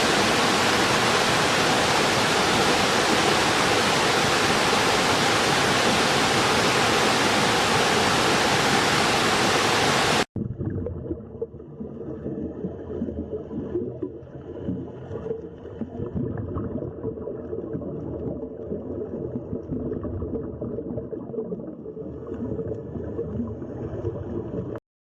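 Waterfall: water pouring down with a steady loud rush. About ten seconds in it cuts off suddenly to a quieter, uneven, lower noise of moving water.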